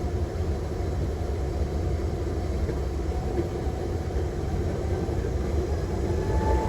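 Airliner cockpit noise during the takeoff roll: a steady low rumble of the engines at takeoff power and the wheels on the runway, growing slightly louder.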